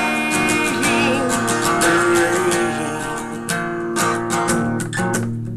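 Strummed acoustic guitar playing a steady rhythm in an instrumental passage of a song, with no singing.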